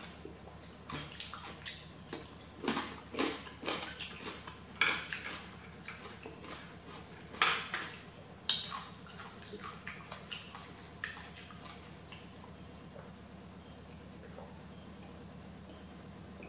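Close-miked eating of noodles: a run of short wet mouth clicks and chewing sounds that thins out after about eleven seconds. A steady high-pitched tone runs underneath.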